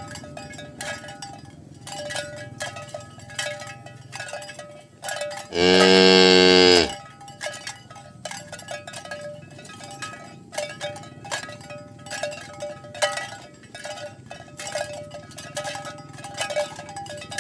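Cattle being herded, with the bells they wear clinking irregularly throughout; about six seconds in, one cow gives a single loud moo lasting a little over a second.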